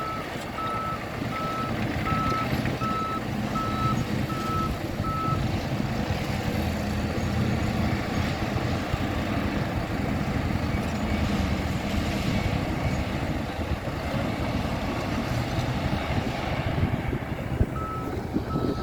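Bulldozer's diesel engine running steadily under load, with its reversing alarm beeping evenly, a little over once a second, for the first five seconds and again near the end.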